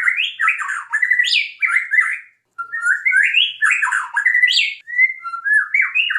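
White-rumped shama (murai batu) singing a fast, loud run of rising and falling whistled phrases, with short breaks about two and a half seconds in and again near five seconds.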